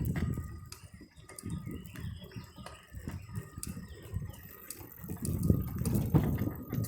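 Wind buffeting the microphone while riding a bicycle: an uneven low rumble that swells and fades, loudest at the start and again from about five seconds in.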